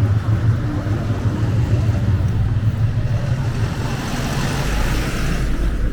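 City street traffic noise: a motor vehicle running close by with a steady low rumble, growing louder about four seconds in as it passes.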